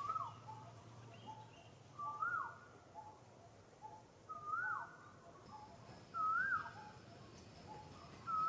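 A bird calling over and over: a whistled note that rises and then drops, repeated about every two seconds, with short softer notes between the calls.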